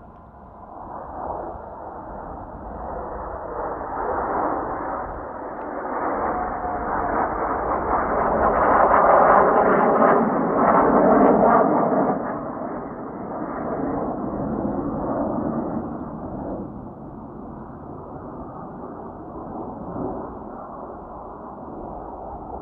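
Jet aircraft of the Blue Impulse team (Kawasaki T-4 trainers) passing by: a rising jet roar that peaks about ten seconds in, then slowly dies away.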